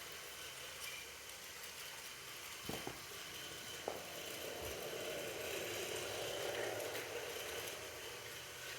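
Toy train running along its plastic track with a steady whir, with two light clicks about three and four seconds in.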